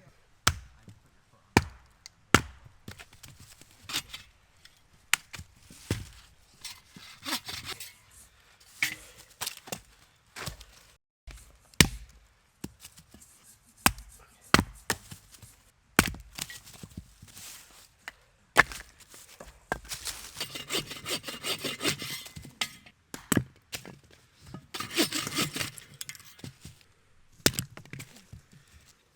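Firewood being cut by hand: single sharp axe chops into wood every second or two, with a few stretches of hand sawing, the longest about two seconds near the two-thirds mark.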